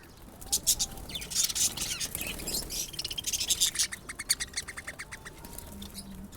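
A colony of birds chattering: many high-pitched chirps overlapping, densest in the first half, with a quick even run of chirps about four seconds in before thinning out.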